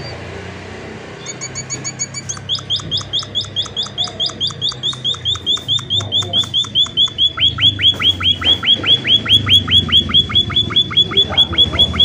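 An emprit, a small munia finch, calling in a fast run of short, sharp, falling chirps, about five a second. The run starts about a second in and gets louder. A steady low hum runs underneath.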